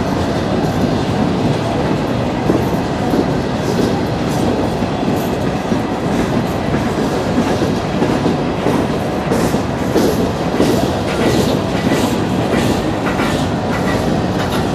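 Freight train of coal hopper cars rolling slowly past: a steady rumble of steel wheels on rail, with repeated clacking as the wheels pass over rail joints.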